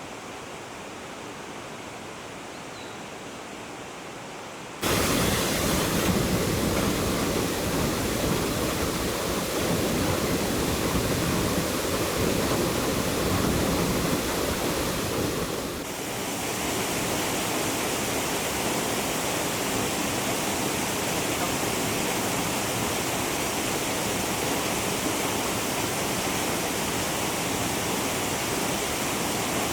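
Waterfall's rushing water, a steady roar of noise that jumps suddenly louder about five seconds in and changes character again around sixteen seconds.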